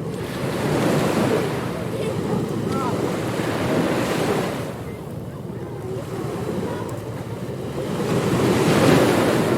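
Ocean surf on a beach: waves breaking and washing in, in two swells, the second one loudest near the end.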